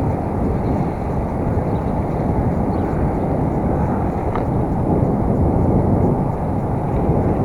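Steady wind rush and road rumble on an action camera's microphone while riding a bicycle, with a brief faint squeak about four seconds in.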